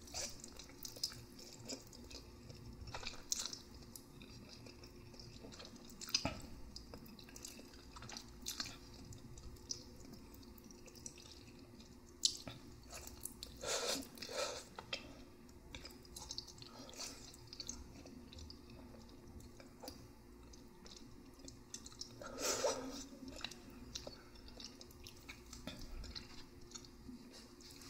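Close-miked chewing of noodles, wet and sticky, with many small mouth clicks and a few longer, louder sounds about 14 and 22 seconds in.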